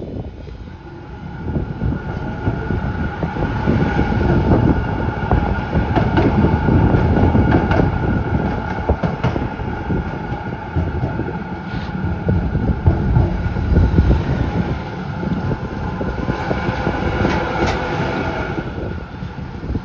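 Z3-class tram running along the track, heard from inside the car: rumbling and rattling with frequent clicks from the wheels on the rails and a steady whine. It grows louder over the first few seconds as it picks up speed, then keeps going at a steady pace.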